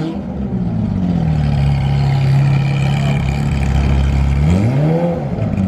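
Loud exhaust of a sports car running with its exhaust valves open: a steady deep drone, then one quick rev that rises and falls back about four and a half seconds in.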